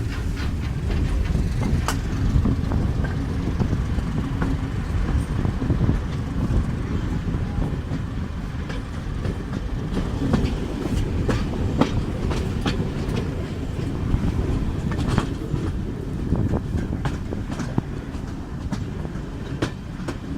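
A train running on the rails, hauled by Class 31 diesel locomotive 31271: a steady low rumble with irregular sharp clicks of the wheels over the rail joints.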